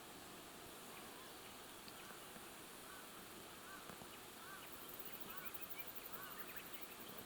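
A bird calling: a series of short, arched notes that rise and fall, repeated roughly every two-thirds of a second, with a faint, very high, rapid pulsing in the background during the second half.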